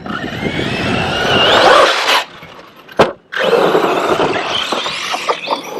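Arrma Kraton EXB 6S RC truck's Hobbystar 4082 brushless motor running under throttle with a rising whine and a rushing noise. It cuts off suddenly about two seconds in. A sharp click follows a second later, then the truck runs again.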